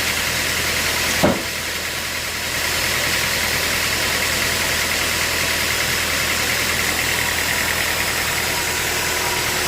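Sawmill machinery running steadily, with one sharp knock a little over a second in.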